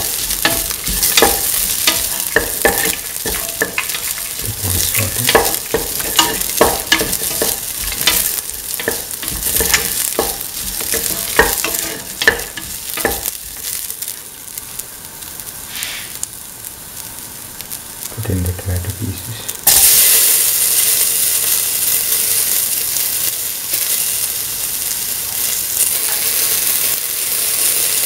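Shallots and onion frying in hot oil in a metal pan, with a spatula scraping and tapping against the pan in frequent strokes. About two-thirds of the way through, the sizzle jumps suddenly louder and stays there as chopped tomato goes into the hot oil.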